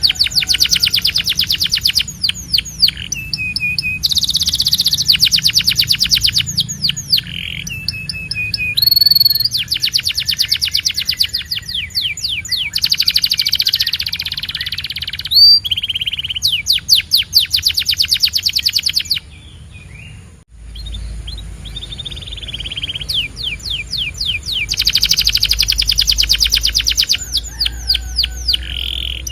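Canary singing: fast trills and rolls of rapidly repeated notes in phrases a few seconds long, broken by short pauses, with a brief lull about two-thirds of the way through.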